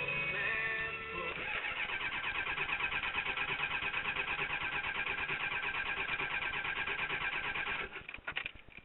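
Ford 7.3 L IDI diesel V8 being cranked over by its starter on a cold start after a single glow-plug cycle, running on a 50% waste-motor-oil blend. It turns over in an even, fast rhythm for about six seconds without catching, then the cranking stops near the end.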